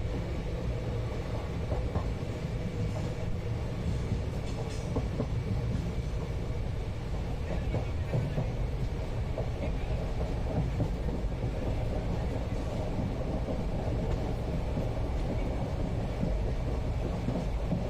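Indian passenger train running along the track, heard from inside the carriage: a steady low rumble with occasional faint clicks.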